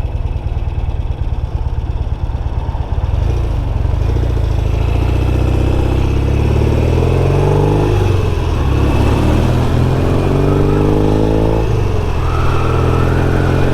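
Norton Commando 850 parallel-twin motorcycle engine pulling away from low revs and accelerating through the gears. Its pitch climbs in each gear and drops at the changes, with a clear drop about twelve seconds in.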